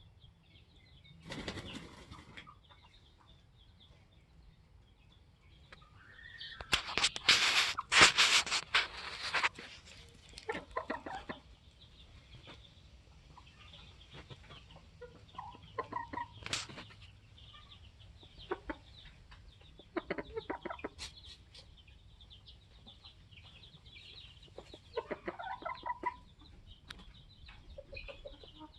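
Polish chickens flapping their wings: a short flurry about a second and a half in, then a longer, louder flurry around seven to nine seconds, with short clucks scattered through the rest.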